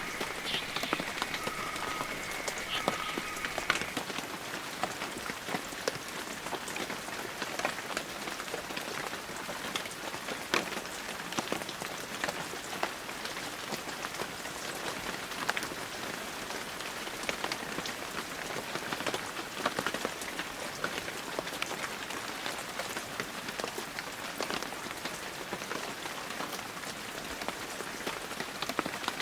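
Heavy rain falling steadily, with many separate drop impacts heard through the even hiss of the downpour. In the first few seconds a few short high tones sound faintly over the rain.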